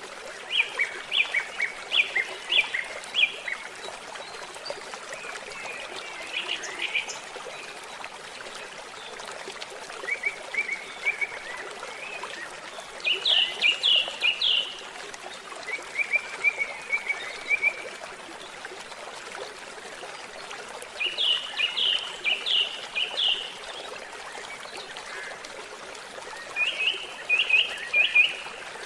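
A steady trickle of running water, with a songbird singing short phrases of quick, repeated high notes every few seconds.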